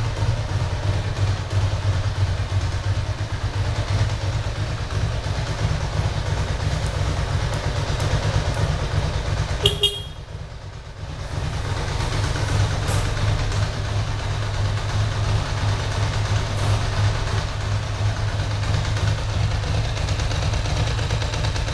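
Ducati Monster 1000 S i.e.'s air-cooled L-twin, breathing through Termignoni mufflers, running steadily at idle with a low throb. It breaks off briefly about ten seconds in, then carries on as before.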